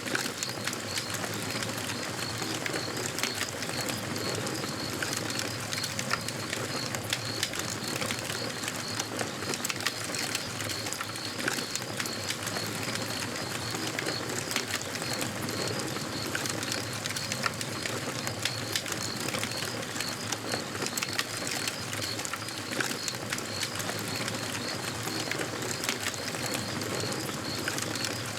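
Campfire crackling, with frequent sharp pops and snaps over a steady hiss. An even, high-pitched chirping repeats quickly in the background.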